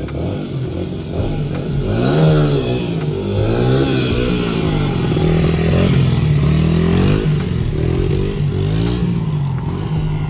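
1999 Honda 80R dirt bike engine running and being revved, its pitch rising and falling about five times, with a rev around 2, 4, 6, 7 and 9 seconds in.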